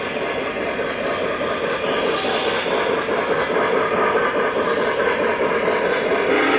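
O gauge model train running on the track, a steady rolling and motor noise that grows slowly louder as it comes closer.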